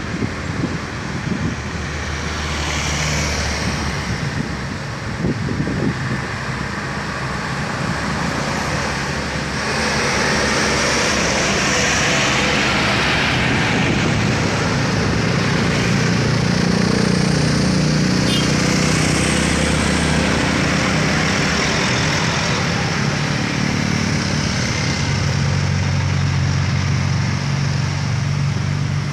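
Heavily loaded sugarcane truck's diesel engine running hard under full throttle, over road noise. It gets louder about ten seconds in.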